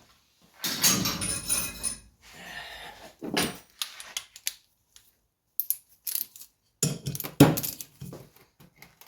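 Metal hand tools clattering and clinking for about a second and a half, with a metallic ring, as a 10 mm tool is picked out. Then a run of separate sharp clicks and knocks follows.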